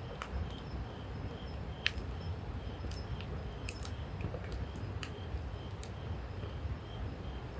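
Wood campfire crackling, with scattered sharp pops over a low rumble; the loudest pop comes about two seconds in. A faint high chirp repeats about twice a second behind it.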